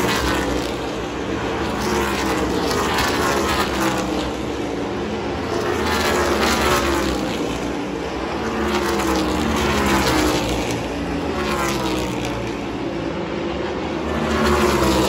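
NASCAR race cars passing one after another at speed. Each engine note sweeps down in pitch as it goes by, and several passes overlap into a continuous drone.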